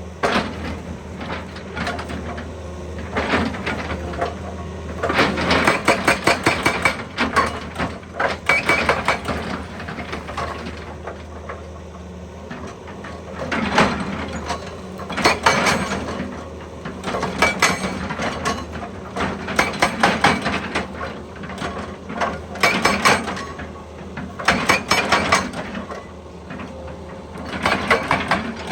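Excavator's hydraulic breaker hammering rock in bursts of rapid knocks lasting a few seconds each, about five times, over the steady hum of the diesel engine.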